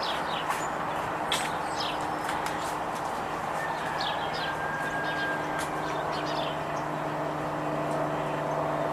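A steady low engine hum, with a few short bird chirps over it in the first half or so.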